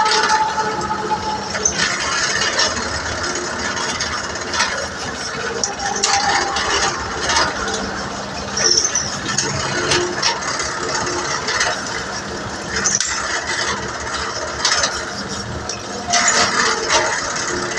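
Metal-on-metal work on a truck clutch plate: irregular clinks and scrapes over a steady low hum, with a few brief high squeaks.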